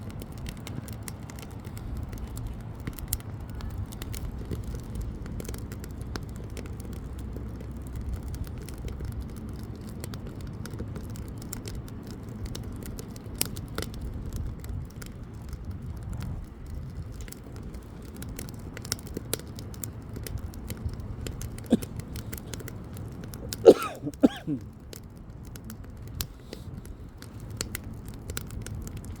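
Wood bonfire burning well: a low steady rumble with frequent sharp crackles and pops from the firewood. About 24 seconds in, a brief wavering whistle-like squeal is the loudest sound.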